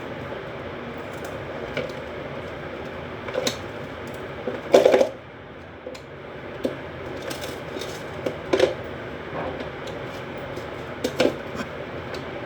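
Soft slime being squeezed and poked by hand, giving irregular sticky clicks and squelching pops every second or two, the loudest about five seconds in, over a steady background hiss.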